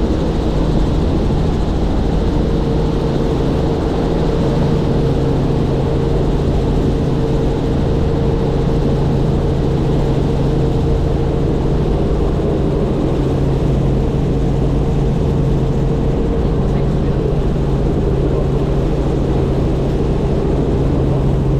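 Helicopter in flight: engine and rotor running steadily, a loud, even drone with a constant low hum and a higher steady tone.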